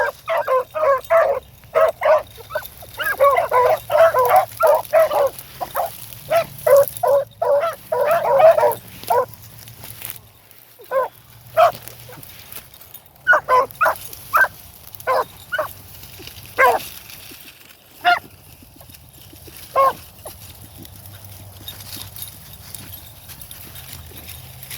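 Beagle hounds giving voice, short repeated bays in quick runs for the first nine seconds, then scattered single bays that stop about twenty seconds in. Wind noise on the microphone underneath.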